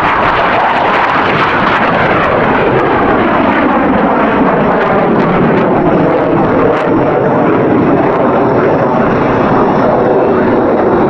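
Loud, steady jet noise of Blue Angels F/A-18 Hornets flying past, with a shifting, sweeping quality as they pass.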